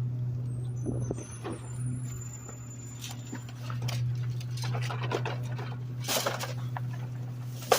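Garbage truck engine running with a steady low drone, with a few scattered knocks and rattles over it.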